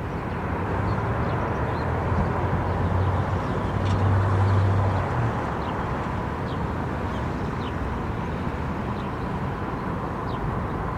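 Steady outdoor traffic noise, with a low engine hum that swells and fades about four to five seconds in. Faint, short, high peeps of a mallard duckling recur through it.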